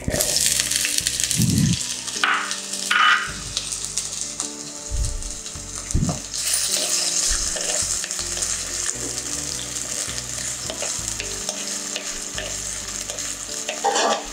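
Diced potatoes tipped into hot coconut oil in a clay pot, sizzling as they start to fry, with a metal spoon stirring and scraping them around the pot. The sizzle sets in suddenly as the potatoes go in and stays steady, broken by occasional spoon knocks.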